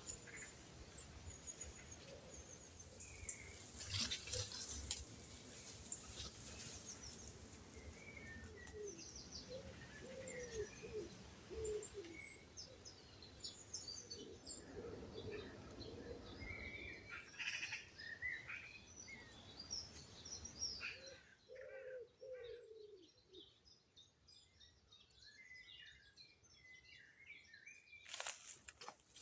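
Faint dawn chorus: several small birds chirping and singing in short trills, with some lower, slower calls in between. A background hiss drops away about two thirds of the way through, and there are a couple of brief rustles.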